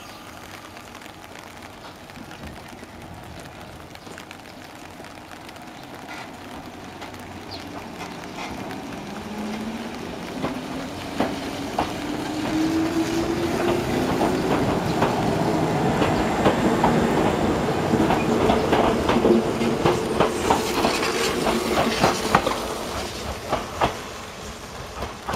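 Yoro Railway 610 series electric train pulling away from a station. Its motor whine rises in pitch as it picks up speed, and the wheels click over the rail joints as the cars pass, loudest in the middle and fading near the end as the train draws away.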